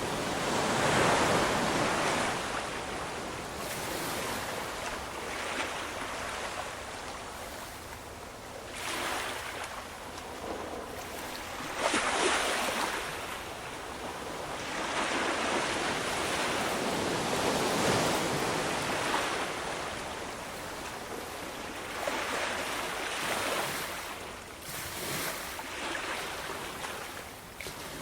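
Ocean waves breaking and washing on the shore, the surf swelling and fading every few seconds, with one sharper crash about twelve seconds in.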